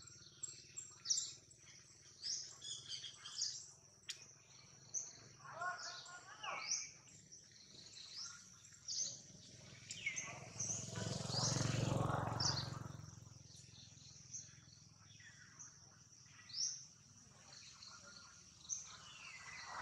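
Birds chirping, with many short high chirps throughout. A louder rushing noise swells and fades for about three seconds in the middle.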